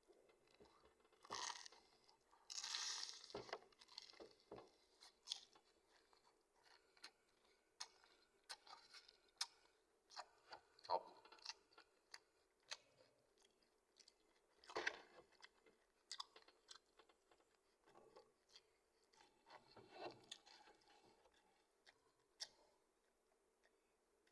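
Close-up eating sounds: chewing and irregular crunching of McDonald's fried chicken with rice, with wet mouth noises between. A few louder crunches come about two to three seconds in, around the middle, and again near twenty seconds.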